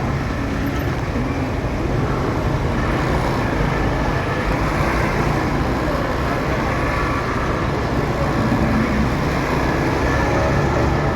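Steady motorcycle riding noise in city traffic: the bike's engine and road noise run on evenly, with no sudden events.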